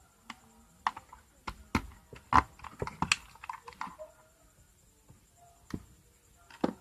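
Irregular clicks and knocks of tools and small metal parts as the heat controller (thermostat) is being removed from an electric iron, loudest around the middle.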